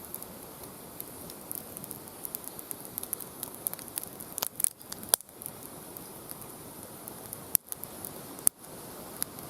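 Campfire crackling in a fire stand, with irregular small pops over a steady hiss and a few louder snaps about five seconds in and again near the end.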